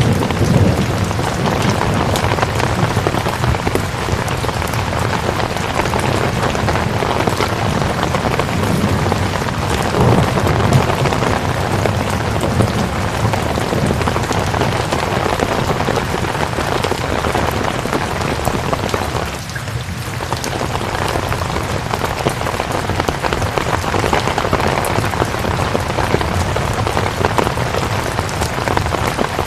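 Steady heavy rain falling on a surface: a dense, even hiss with individual drops ticking through it. A low rumble dies away in the first second, and the rain thins briefly about two-thirds of the way in.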